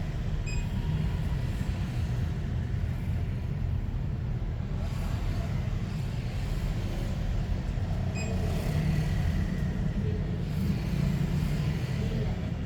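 Steady low rumble of road traffic that swells twice, with two short high beeps, one about half a second in and one about eight seconds in.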